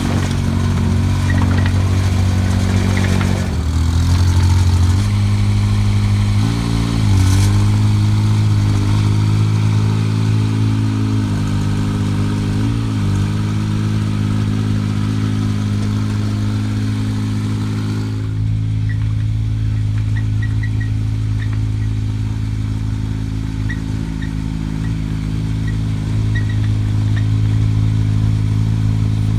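Mini excavator's engine running steadily. Its pitch dips briefly three times in the first half, as when it is loaded while working.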